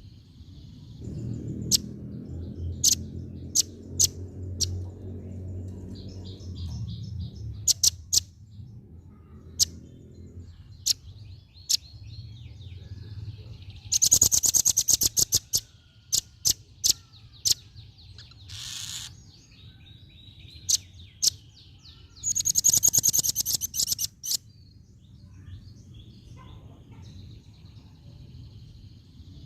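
Velvet-fronted nuthatch (red-billed rambatan), a female, calling in sharp, high, single chirps, with two loud, rapid rattling trills near the middle and about two-thirds of the way through. A low rumble sits underneath during the first few seconds.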